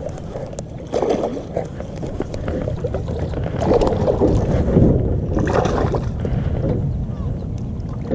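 A hooked bass splashing at the water's surface as it is reeled in toward the boat, in several irregular bursts, over a steady low wind rumble on the microphone.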